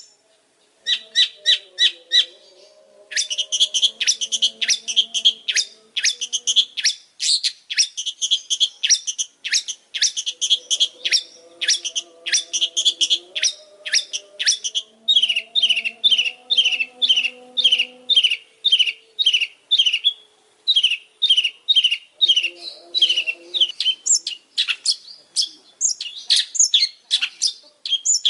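Long-tailed shrike (pentet) singing in full voice: a fast, unbroken run of sharp chirps and squeaky notes, several a second, with one brief pause near the start.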